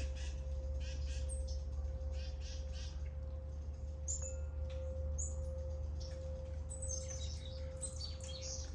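Small songbirds chirping and tweeting in quick, scattered calls, busiest near the end, over a steady low rumble and a faint constant hum.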